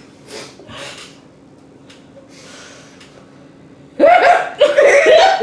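Faint breathy snickers, then loud laughter starting about four seconds in.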